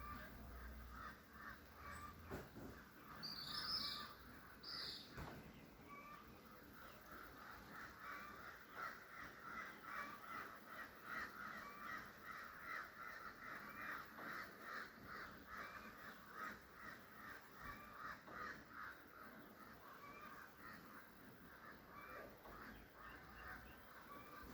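Faint, rapidly repeated animal calls, several a second and strongest in the middle, with a few higher chirps a few seconds in.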